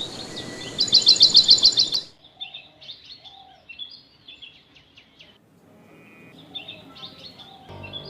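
Songbirds chirping: a quick, loud run of repeated chirps that cuts off abruptly about two seconds in, followed by fainter, scattered chirps and short calls.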